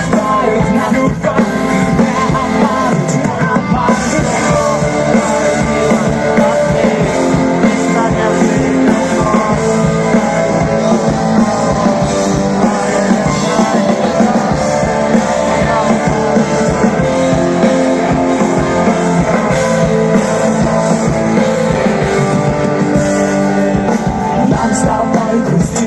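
Live rock band playing with guitars, drums and singing, loud and continuous.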